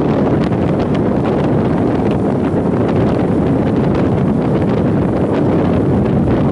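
Strong typhoon wind blasting the camera microphone: a loud, steady, rumbling rush with constant small crackles and gusts.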